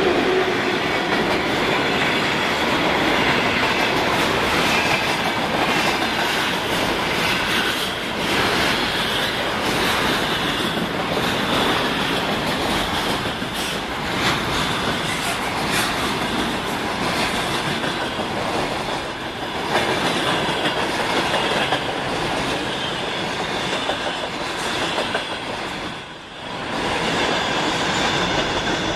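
Freight train hauled by a VL80S electric locomotive rolling past, its wheels clattering over the rail joints in a steady loud rumble, dipping briefly near the end before picking up again.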